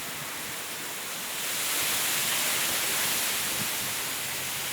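Steady rain falling, getting a little heavier about a second and a half in.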